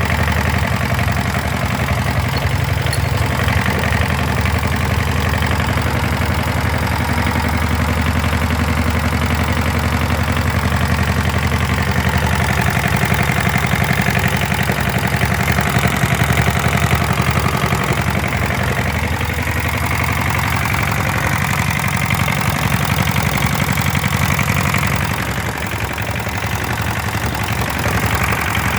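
Hatz diesel engine running steadily, with a slight change in its note about twelve seconds in and a brief drop in loudness near the end.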